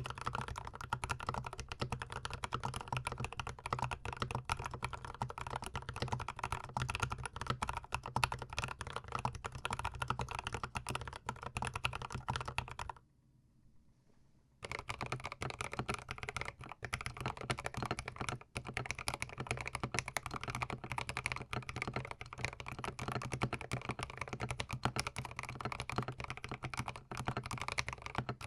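Fast, continuous typing on a close-miked GMMK Pro mechanical keyboard fitted with C3 Tangerine linear switches, a dense patter of key strokes. About halfway through the typing stops for a second and a half, then resumes at the same pace.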